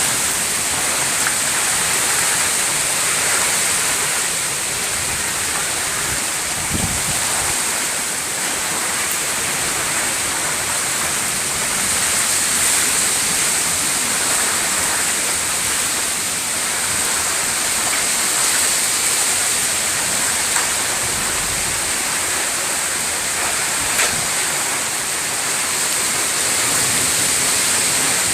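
Heavy rain pouring down in a thunderstorm downpour, a dense steady hiss, with a couple of sharp taps near the end.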